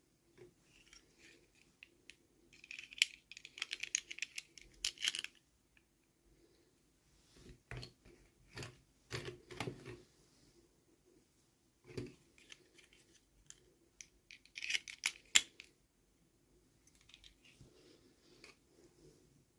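Toy packaging being handled and opened by hand: scattered light clicks and taps of small plastic parts, with two spells of crinkly rustling and snipping, about three seconds in and again near fifteen seconds.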